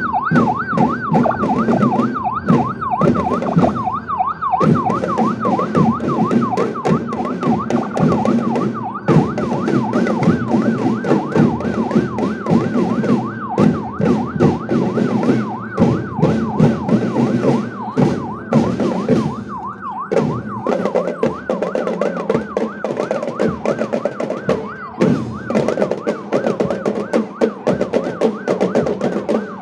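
Drum band playing, with dense drum beats and lower instrument tones, under a siren warbling rapidly up and down, about three sweeps a second, that fades somewhat in the last third.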